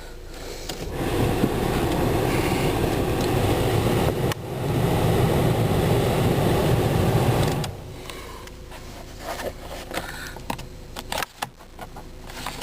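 2003 Volkswagen Jetta's climate-control blower fan running. It builds up over the first second or so, breaks off briefly about four seconds in, comes back louder, then stops suddenly near eight seconds in. A few faint clicks follow.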